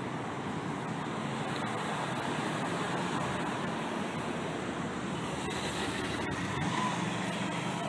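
Steady outdoor background noise: an even wash of sound with no distinct events.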